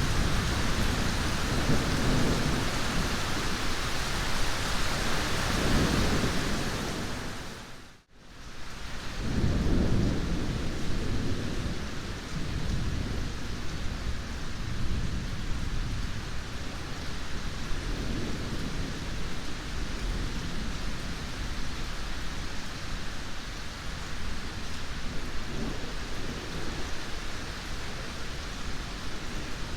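Steady heavy rain with rolling thunder rumbling low underneath. The sound fades out briefly about eight seconds in and comes straight back with a strong roll of thunder, after which the rain carries on with only faint rumbles.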